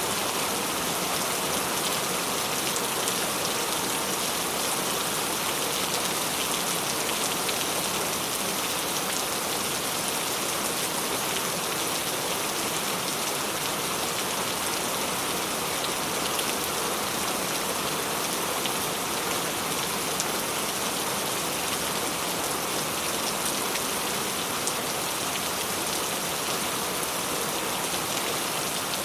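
Tropical rain falling steadily, an even hiss of rain with scattered sharper ticks of single drops.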